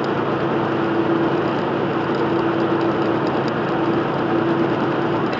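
Truck engine and road noise heard inside the cab while driving, steady, with a droning tone held throughout.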